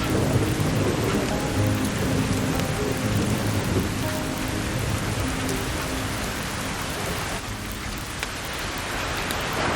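Steady heavy rain with low rolling thunder that rumbles through the first half and eases toward the end.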